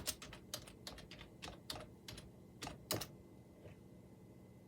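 Computer keyboard typing, a run of quick irregular key clicks that stops about three seconds in.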